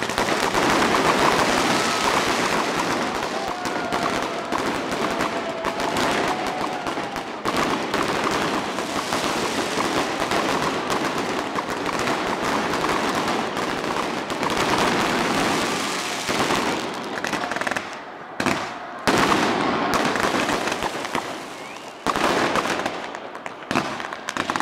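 Fireworks going off overhead: a dense, continuous rapid crackle and popping of bursting aerial shells and firecrackers. It eases off in short lulls about three-quarters of the way through and again near the end.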